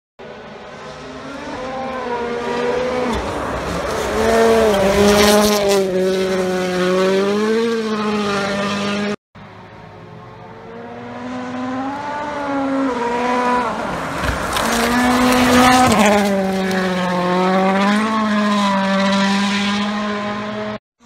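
World Rally Cars' turbocharged four-cylinder engines at high revs, pitch rising and falling with gear changes as a car approaches and passes. There are two separate passes, split by an abrupt cut about nine seconds in, with a few sharp cracks near the loudest moments.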